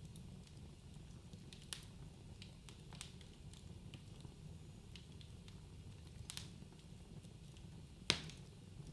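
Wood fire crackling in a fireplace: scattered sharp pops over a faint low rumble of the flames, with the loudest pop about eight seconds in.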